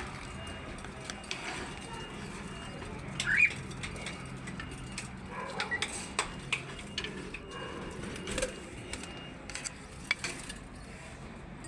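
A few short bird chirps, one rising sharply about three seconds in, over a steady background hiss, with scattered sharp clicks.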